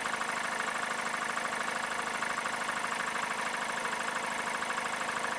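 Craftsman Professional air compressor running steadily, its motor and piston pump building tank pressure with a fast, even pulsing.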